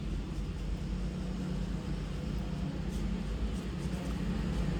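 Steady low background rumble with no clear events on top.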